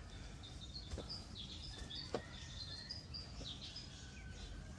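Small birds chirping and twittering in short, high notes, some sliding downward, over a low steady background hiss, with a few faint clicks.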